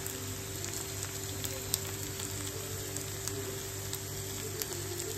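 Okra and onions frying in oil in a nonstick pan: a steady sizzle with scattered crackling pops, one louder pop about two seconds in.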